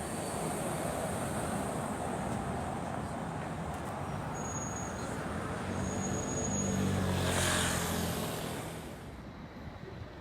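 Street traffic, with one vehicle's engine growing louder as it passes close about seven seconds in, then fading away.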